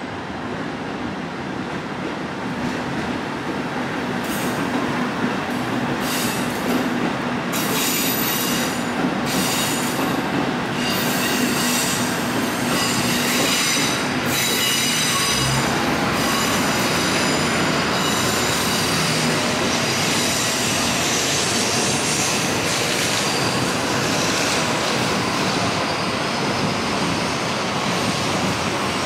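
Shinkansen bullet train running past on elevated track: steady rolling rumble that grows louder over the first few seconds, with high-pitched wheel squeal through the middle part.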